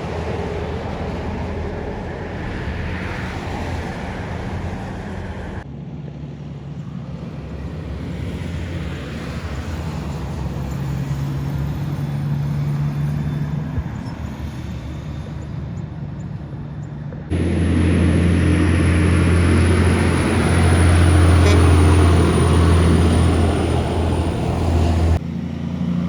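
Heavy trucks on the highway, diesel engines running steadily over tyre and road noise, in separate clips that change abruptly about 6 and 17 seconds in; the last one is the loudest.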